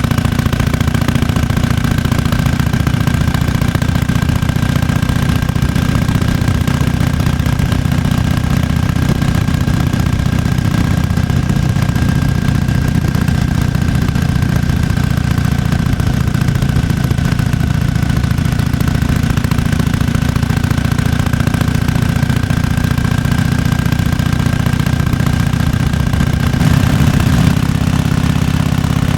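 1998 Harley-Davidson FLSTF Fat Boy's air-cooled Evolution V-twin idling steadily with its loping potato-potato beat.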